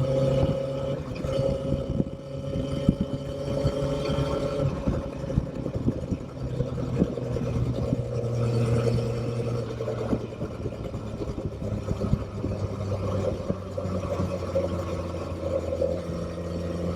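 Motorcycle engine running on the move, its pitch drifting up and down with the throttle over a rough low rumble.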